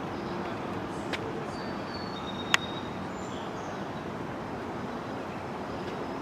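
Steady background rush of outdoor noise, with a faint click about a second in, a sharp click about two and a half seconds in, and a few short, faint high chirps.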